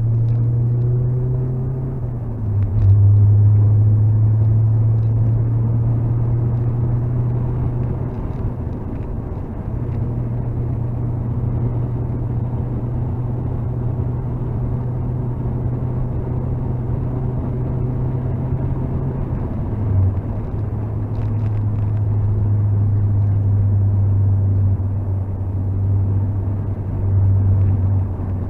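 Mazda MX-5 NC's 2.0-litre four-cylinder engine with an AG Works aftermarket exhaust, heard from inside the cabin running hard on track. Its low note holds steady for long stretches and steps in pitch a few times, louder about two and a half seconds in.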